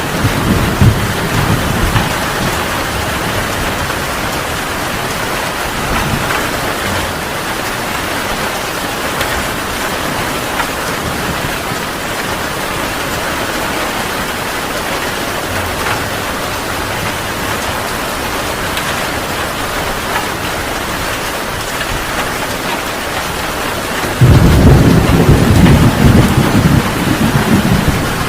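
Heavy rain pouring steadily in a thunderstorm. A low thunder rumble fades out in the first second, and near the end a much louder rumble of thunder comes in suddenly and keeps rolling.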